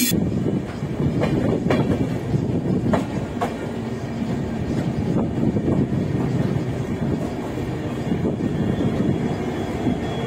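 Indian Railways express train running on the track, heard from on board: a steady rumble, with a few sharp clicks of the wheels over rail joints in the first few seconds.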